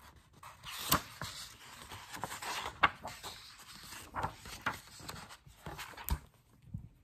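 Pages of a hardcover picture book being flipped through quickly, the paper rustling, with sharp page snaps about a second in and near three seconds, and another knock near the end as the book is handled.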